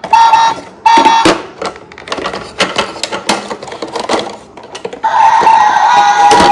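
Electronic toy sound effects: three short beeps in the first second or so, then irregular plastic clicking and rattling, then a steady electronic tone from about five seconds in.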